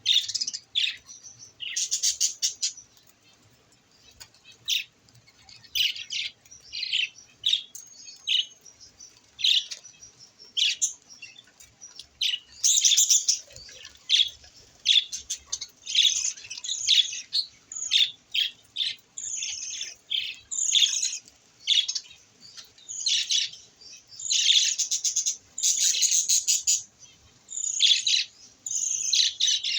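Budgerigars chirping and chattering in a stream of short, high chirps, with a brief lull early on and busier, louder chatter in the second half.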